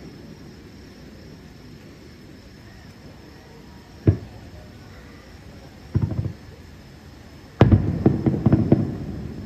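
Aerial firework shells bursting: a single sharp bang about four seconds in, a short cluster of reports about two seconds later, then the loudest bang near the end followed by a quick string of further reports.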